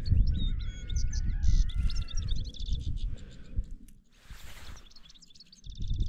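Small birds chirping and twittering in quick high trills, with a low rumble under them for the first few seconds. A short rush of noise comes about four and a half seconds in.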